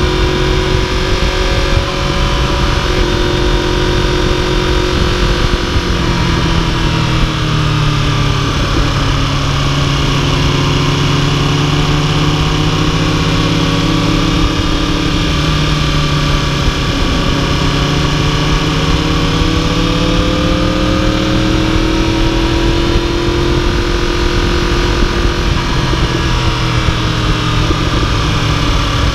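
2015 Yamaha YZF-R1's crossplane inline-four running under way at a cruise, its pitch sinking and climbing back a few times as the throttle eases and opens, over a steady rush of wind.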